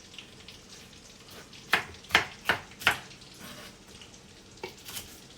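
Chicken frying in oil with a faint, steady sizzle. A quick run of four sharp knocks about two seconds in and one more near the end.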